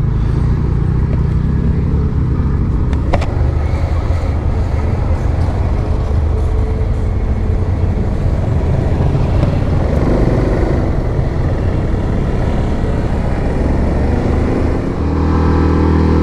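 Yamaha Grizzly 700 ATV's single-cylinder engine running under way on a packed-snow trail, with wind and trail noise. About 15 seconds in the engine note settles into a steadier, even tone as the machine slows.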